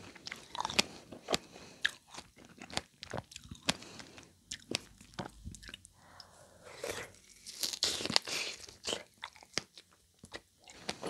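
Close-miked biting and chewing of a strawberry covered in 24-karat gold leaf: irregular crisp crackles and wet mouth sounds.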